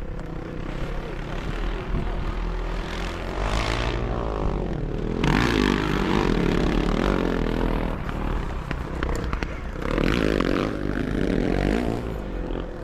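Motocross sidecar motorcycles racing past, their engines revving and swelling loud several times as machines go by.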